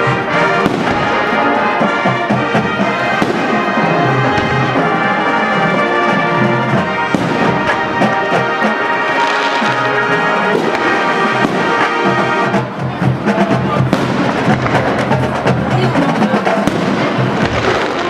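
Brass and percussion music playing loudly while fireworks bang and crackle over it, with many short pops throughout.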